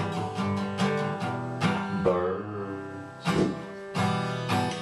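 Acoustic guitar strummed in a steady rhythm, with a voice singing the drawn-out chorus word "birds" partway through.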